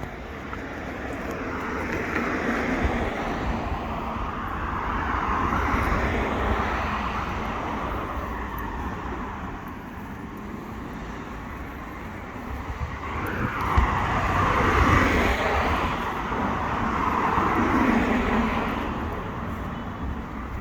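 Street traffic: cars passing one after another, about four in all, each rising and fading as it goes by, over a steady low rumble.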